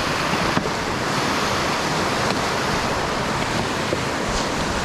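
Steady rushing noise of wind buffeting a helmet-mounted action camera's microphone, mixed with the hiss of snow, while riding.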